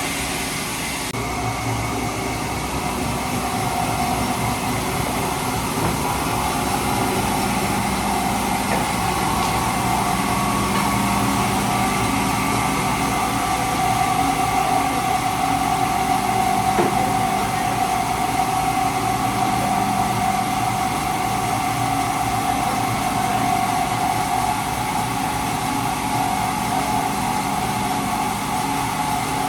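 Heavy machinery running steadily: a continuous mechanical drone with a steady whine over it.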